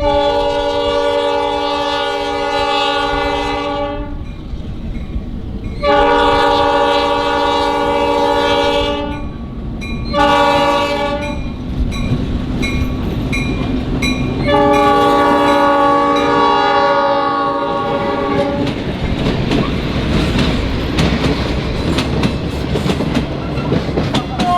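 Rock Island diesel locomotive 4506's multi-chime air horn sounding the grade-crossing signal: long, long, short, long. After the last blast the train rolls past, with engine rumble and wheels clicking over the rail joints.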